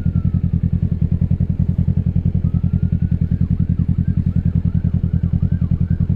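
Kawasaki Ninja 650's parallel-twin engine through an M4 full exhaust, running steadily at low revs with an even pulsing beat. A siren sounds faintly behind it: first a slow falling wail, then from about halfway a quick rising-and-falling yelp, about two cycles a second.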